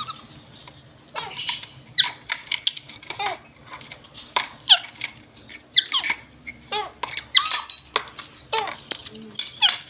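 Caged parrots calling: many short, squeaky calls that drop sharply in pitch, several a second and sometimes overlapping.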